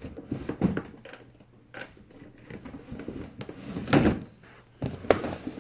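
Plastic fidget toys being handled and sorted: scattered clicks and knocks, with a louder rustling scrape about four seconds in.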